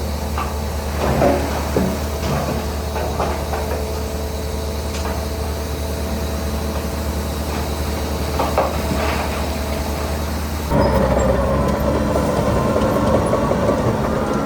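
Heavy construction machinery's diesel engines running steadily, with scattered metallic knocks and clanks. About eleven seconds in, the sound switches abruptly to a louder engine with a faint rising whine.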